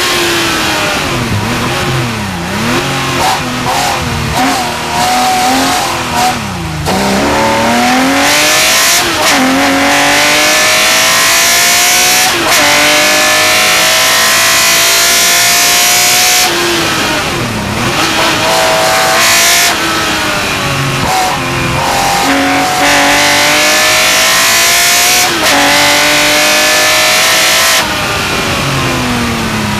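Porsche 911 Carrera RSR's flat-six racing engine heard onboard at full throttle, the revs climbing and dropping sharply at each gear change, with a few falls in revs where the driver lifts and downshifts for corners.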